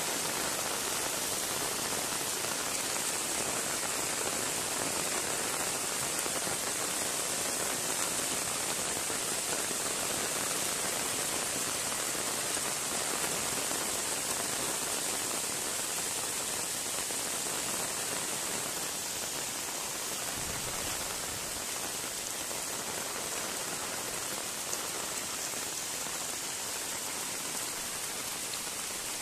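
Heavy rain pouring steadily onto a flooding river, a constant even hiss.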